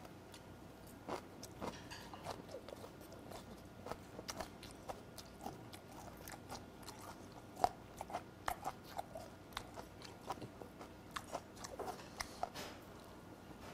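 A person chewing a mouthful of raw skate close to a clip-on microphone: irregular wet clicks and crunches, one sharper crunch about halfway through.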